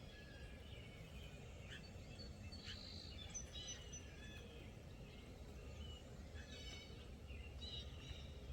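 Wild songbirds chirping and calling, short high notes coming in clusters every second or so, over a steady low background rumble.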